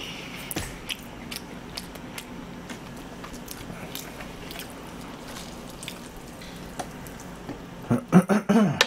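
Wet chewing and lip-smacking of a mouthful of cold spicy buckwheat noodles: a string of soft irregular clicks over a steady low hum. A brief voice-like sound comes near the end.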